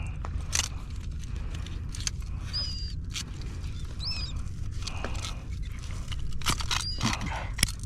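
Three short, high chirping calls, about two and a half, four and seven seconds in, from seabirds working over the fish. Under them runs a steady low rumble from the boat, with scattered clicks and knocks of fishing gear being handled.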